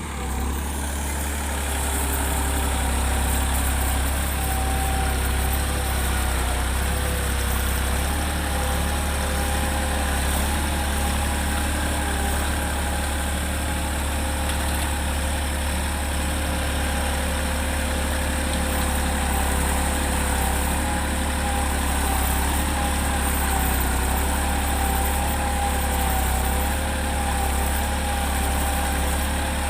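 Massey Ferguson tractor's diesel engine running steadily, with an even low hum and no change in speed.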